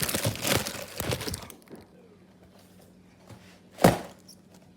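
Crinkling and rustling of a graham cracker package being handled for about a second and a half, then a single sharp knock a little before the end.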